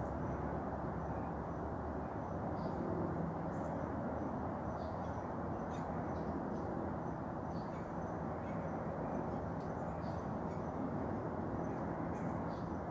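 Faint, short bird chirps scattered throughout, over a steady low background rumble.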